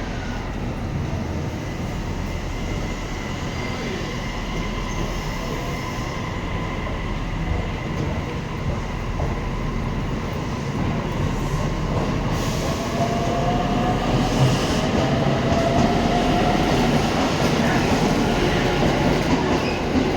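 E657-series electric limited express train pulling out of a station, its motor whine rising in pitch as it gathers speed, over a steady rumble of wheels on rail that grows louder.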